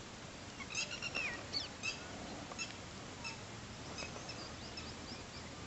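Faint chirping of small birds in the background: a scattering of short, high calls, some sliding downward in pitch.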